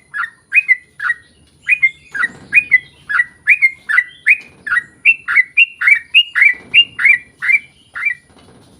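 Yellow-vented bulbul (trucukan) singing a long rapid run of short, bright, rising-and-falling notes, two to three a second, stopping near the end.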